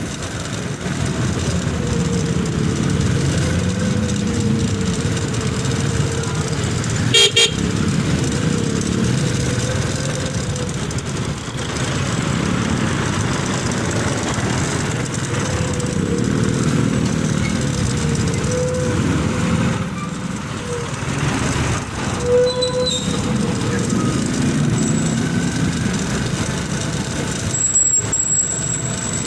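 Motorcycle on the move: steady engine and road noise, with a short sharp loud sound about 7 s in and a brief horn toot about 22 s in.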